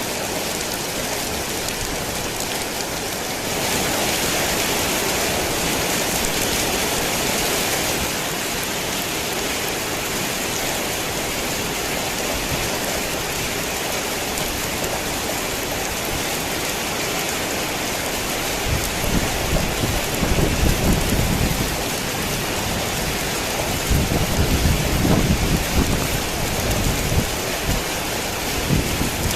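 Heavy rain falling steadily, a little louder for a few seconds early on. Low rumbles of thunder come in about two-thirds of the way through and again near the end.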